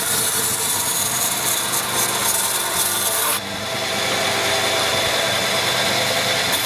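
A tool working wood, making a continuous noise with a faint steady whine. About three and a half seconds in the sound changes abruptly and loses some of its high end.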